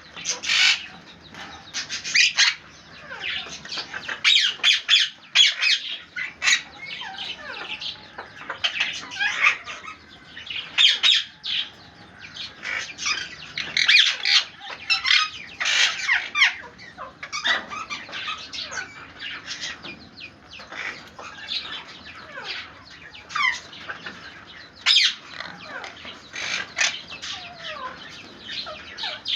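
A pair of pet parrots squawking and chattering in quick, irregular calls while they play-fight, with wing flutters.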